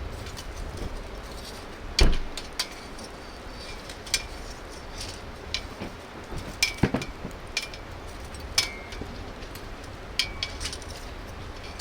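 Scattered metallic clinks and knocks of camp gear being handled, several with a short ringing tone, with one heavier thud about two seconds in.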